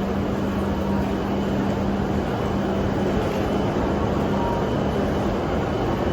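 Train running noise: a steady rumble and rush with a constant low hum.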